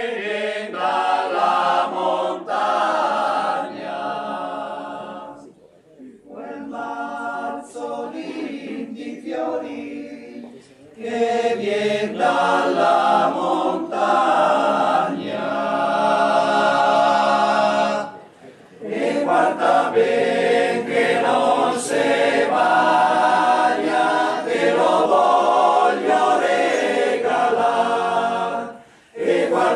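Male choir singing a cappella in close harmony, in long phrases separated by brief pauses for breath.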